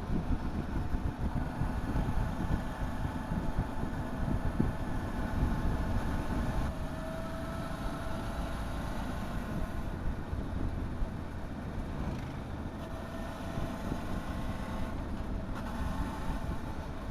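A motorcycle riding along the road: heavy wind rumble on the microphone over the engine running, its note shifting a little with the throttle.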